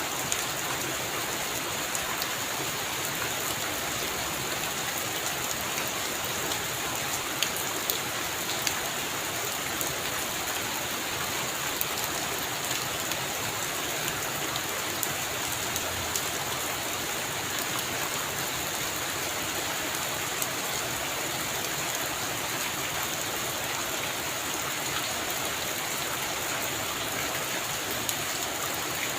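Steady heavy rain falling on a roof, a dense even hiss with frequent sharp drop ticks.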